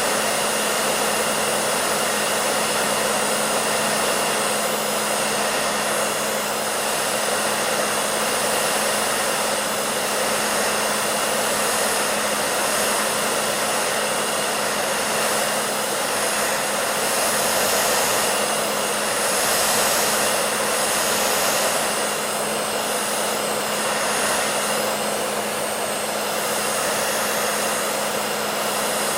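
Hair dryer running steadily: a continuous airy rush of blown air over a low motor hum.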